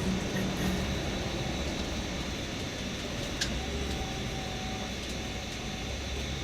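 Tour coach driving, heard from inside the cabin: a steady low engine hum and road noise, with a single click about three and a half seconds in.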